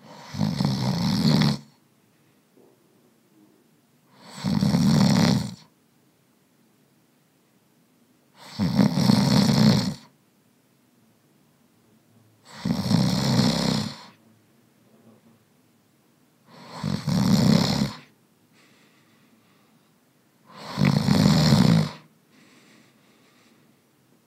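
A person snoring, or imitating a snore with the mouth: six rasping snores at an even pace, about one every four seconds, each lasting about a second and a half.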